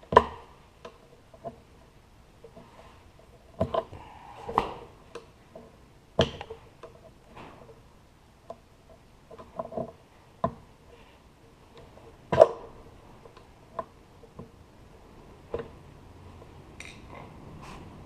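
Scattered sharp clinks and knocks of hand tools and parts during work on a motorcycle's fuel lines and carburetor. They come at irregular intervals, and the loudest are just after the start and about twelve seconds in.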